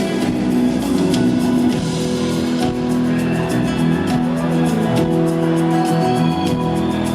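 Live band music: an instrumental passage with guitar over a steady beat, without a lead vocal.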